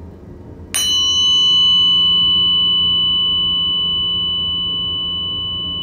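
A tuning fork struck once, about a second in, ringing with a clear high tone and fainter overtones that fades slowly.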